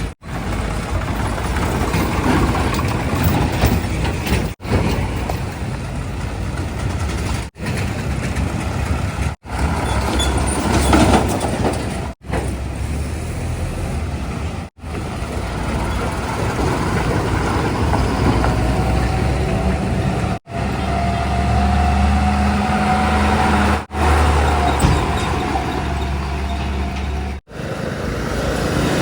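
Heavy diesel engines of a backhoe loader and tipper trucks running and working. The sound is chopped into short pieces, with abrupt cuts every few seconds, and the engine note holds steadier for a few seconds past the middle.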